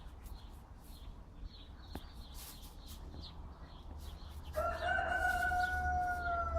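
A rooster crows once: a single long call beginning about four and a half seconds in, its pitch sagging slightly toward the end. Small birds chirp repeatedly in the background.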